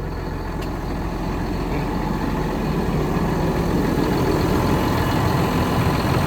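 Tractor engine idling steadily, growing slightly louder over the seconds.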